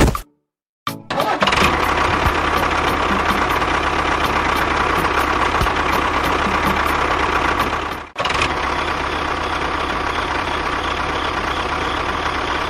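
An engine starts up about a second in and runs steadily. It cuts out briefly about eight seconds in, then runs on.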